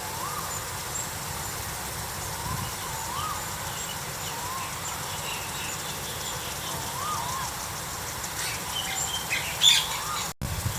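Birds calling outdoors: a soft whistled note that rises and falls, repeated every second or two, and a brief cluster of sharper, higher chirps about nine to ten seconds in, which is the loudest moment.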